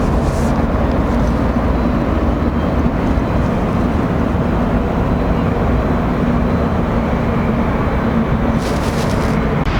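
Aircraft engine noise: a steady, heavy rumble with a faint low hum running through it.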